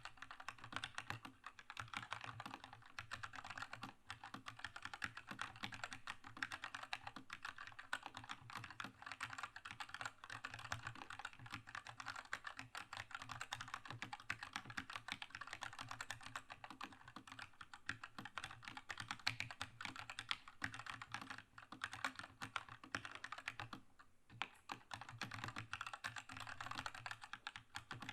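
Steady, fast typing on a Keychron K2 mechanical keyboard with red linear switches: a dense stream of key clacks, with a short lull near the end.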